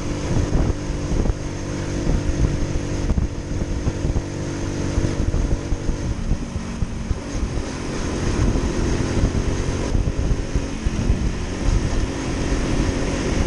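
Motorcycle engine running under way, a steady engine note over rumbling low noise, the note wavering about halfway through and settling again near the end.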